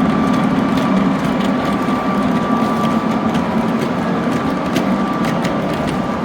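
Gauge 1 model train running on the layout: a steady motor hum with a thin whine, and irregular clicks of wheels passing over rail joints.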